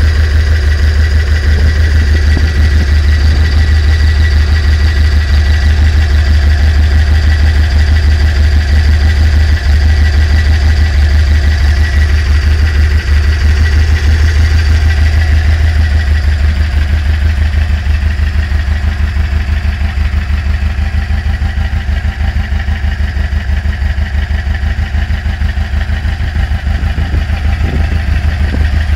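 2276 cc air-cooled VW flat-four engine idling steadily with its carburettors freshly synchronised. It settles slightly quieter about halfway through.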